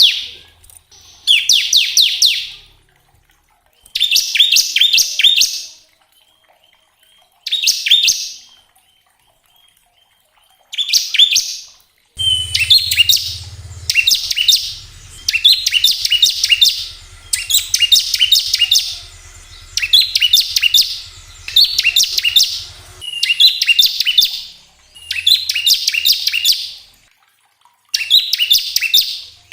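A ciblek (bar-winged prinia) singing its rapid, rattling 'ngebren' song: high, fast-stuttering phrases of one to two seconds each, repeated with short pauses that shorten to near-continuous song about halfway through.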